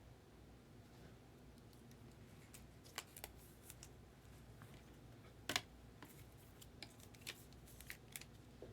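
Faint scattered clicks and light taps of trading cards and their holders being handled, the sharpest about five and a half seconds in, over a low steady room hum.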